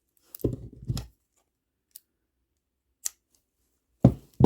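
Scissors snipping the loose string ends after the last knot, with a few sharp clicks and heavier bumps of handling the piece close to the microphone.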